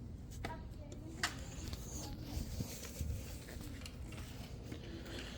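A few faint clicks and light handling knocks over a low steady hum.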